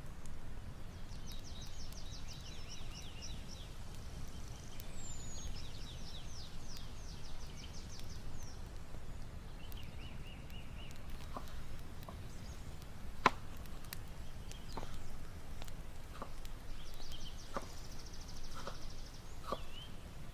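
Small birds singing short rapid trills, three runs of song, over a low steady rumble of outdoor background noise. Scattered light clicks and one sharper knock come in the second half.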